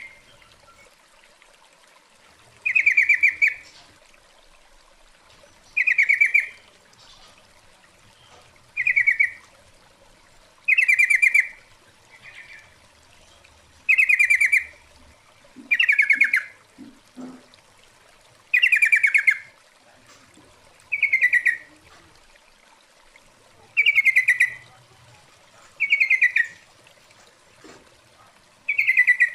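Female yellow-vented bulbul (trucukan) calling to males: short, rapid bubbling call phrases repeated about every two to three seconds, about a dozen in all.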